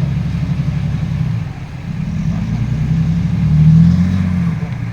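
Heavy diesel engine of a loaded dump truck pulling hard. It eases briefly about a second and a half in, then revs up and gets louder toward the four-second mark.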